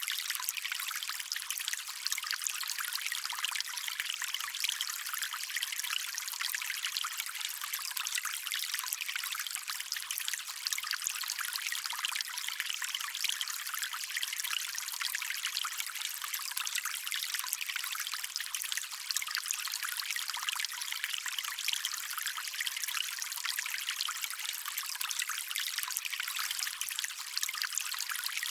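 Shallow stream trickling steadily over stones, an even bright splashing with no low rumble.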